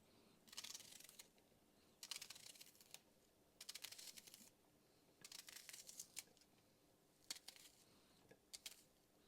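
Faint knife chopping an onion on a cutting board, in about five short bursts of rapid strokes with pauses between them, and a few single cuts near the end.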